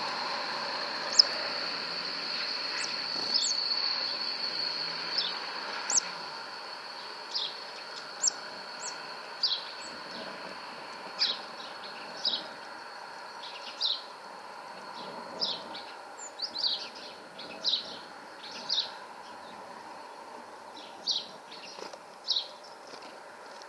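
Small birds giving short, high chirps, roughly one a second and sometimes two in quick succession. A steady high-pitched whine fades out over the first ten seconds, with a faint low hum underneath.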